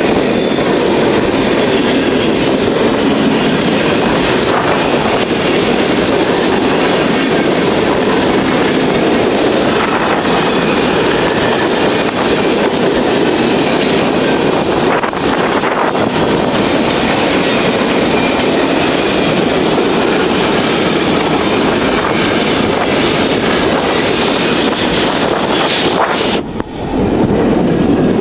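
Empty centerbeam lumber cars of a fast freight train rolling past, with steady wheel-on-rail noise and a brief drop in loudness near the end.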